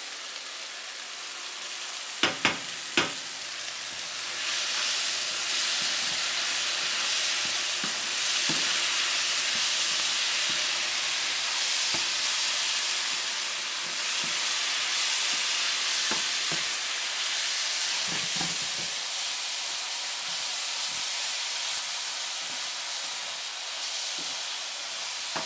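Onions and mushrooms in sauce sizzling in a hot pan and being stirred, with small knocks of the utensil against the pan. About two seconds in come three sharp knocks, and the sizzle swells about four seconds in and holds steady.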